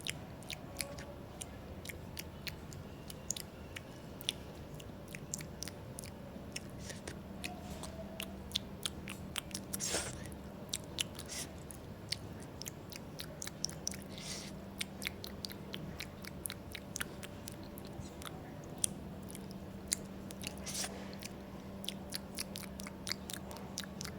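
Close-miked chewing and mouth sounds of a person eating sushi: irregular soft wet clicks and smacks, with no words.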